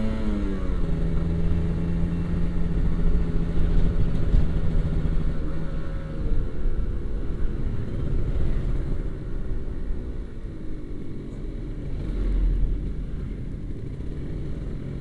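Kawasaki Ninja RR 150's single-cylinder two-stroke engine running while riding at a steady pace, with low wind rumble on the microphone. About six seconds in the engine note drops and wavers lower as the throttle eases off.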